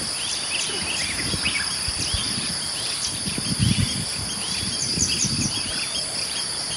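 Steady high-pitched drone of insects with many short, quick bird chirps over it throughout. A few low bumps come through about three and a half seconds in and again near five seconds.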